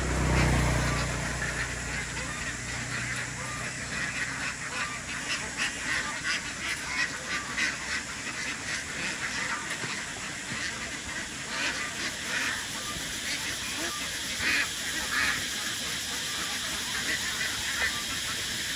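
A flock of farm ducks quacking, many short calls overlapping throughout, with a brief low rumble right at the start.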